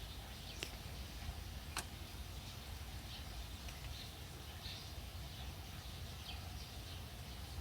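Faint, scattered high chirps over a low steady hum, with two short sharp clicks about a second apart near the start.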